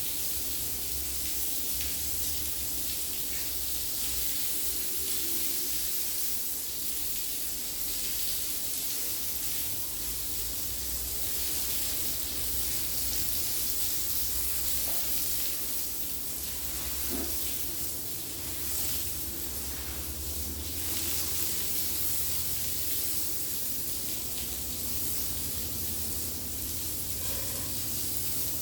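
Steady hiss of spraying water, with a low rumble underneath.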